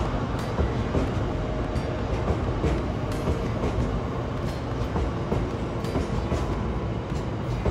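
Freight train of covered hopper wagons rolling past with a steady rumble and occasional sharp clicks from the wheels over the rail joints.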